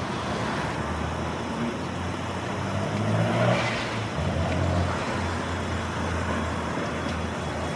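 Road traffic: motor vehicle engines running with a low, steady hum, and one vehicle passing about three and a half seconds in.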